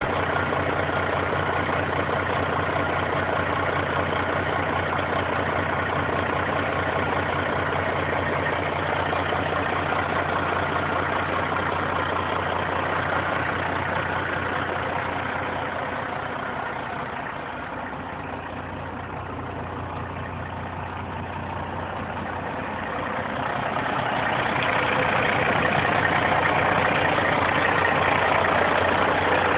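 Caterpillar C-15 inline-six diesel in a Peterbilt 389 semi tractor idling steadily at an even pitch. It grows quieter for a few seconds past the middle, then louder again toward the end, while the engine speed stays the same.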